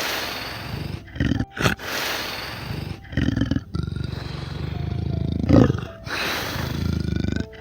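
A large animal roaring in a series of long, rasping calls with short breaks between them, the loudest about five and a half seconds in.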